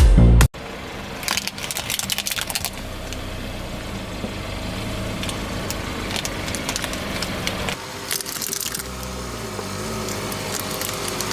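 Car engine running at low speed as the car rolls over objects, with crackling and crunching as they are crushed under the tyres, most about a second in and again near the end. A burst of electronic music cuts off about half a second in.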